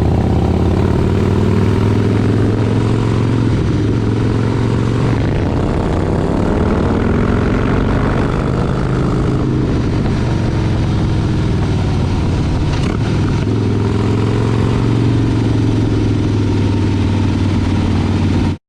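Motorcycle engine running under way, a steady low rumble whose pitch rises and falls a few times with the throttle. It cuts off abruptly near the end.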